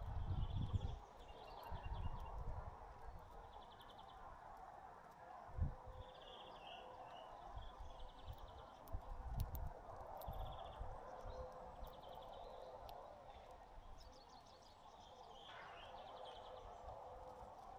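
Small songbirds at a feeder chirping in many short, rapid trilled bursts, over a faint steady outdoor background. Low rumbles and a few dull thumps come through, the sharpest about five and a half seconds in.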